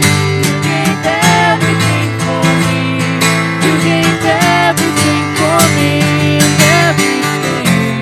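Instrumental passage of a worship song: acoustic guitar strumming with a bass line, and a short sliding melody recurring about four times over it.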